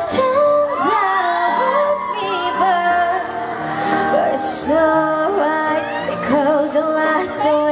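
A voice singing a melody with vibrato and fast runs over an instrumental accompaniment of held chords.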